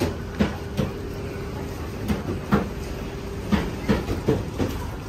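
Metro train running, heard from inside the car: a steady low rumble with a held whine and irregular sharp clacks.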